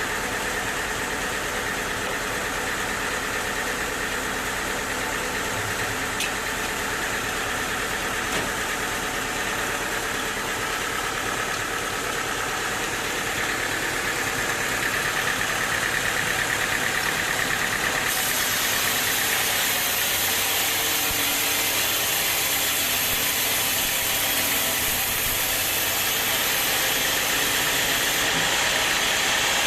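Sawmill machinery running steadily with an engine's drone; it grows louder and brighter about two-thirds of the way through.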